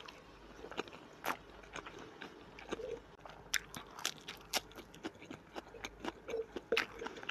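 A person biting and chewing food: irregular sharp mouth clicks and smacks, coming more often in the second half.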